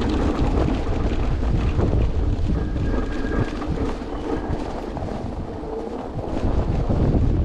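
Strong wind buffeting the microphone, a heavy gusty low rumble that eases for a couple of seconds past the middle and then picks up again.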